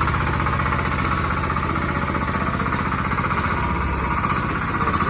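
Mini excavator running, with a steady, rapid pulsing from its small engine.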